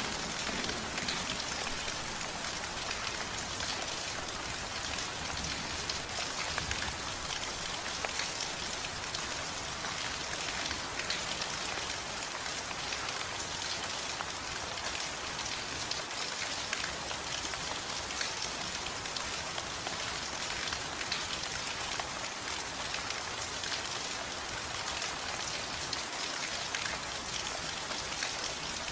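Steady rain falling on a surface, a dense, even patter of many drops with no break.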